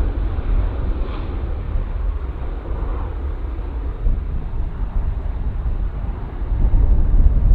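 Jet airliner's engine noise after it passes by, the higher part fading over the first couple of seconds and leaving a steady low rumble.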